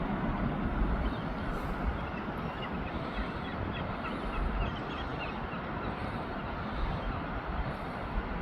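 A flock of shorebirds giving a run of short high calls for a few seconds in the middle, over a steady rumble of wind and surf on a stormy beach.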